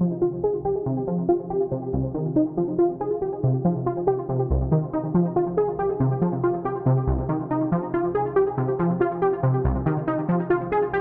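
Electronic track played on the Polyend/Dreadbox Medusa synthesizer: a sequenced pattern of synth notes over a deep bass note that hits every two and a half seconds or so. The sound grows brighter toward the end.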